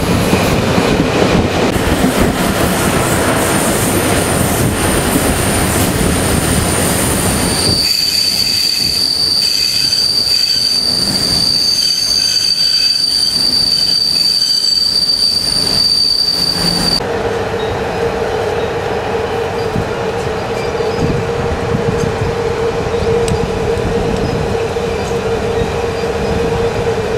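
Intercity passenger train running on the rails, its wheels squealing in high steady tones for about fifteen seconds. The squeal stops suddenly about two-thirds of the way through, leaving the running rumble with a lower steady hum.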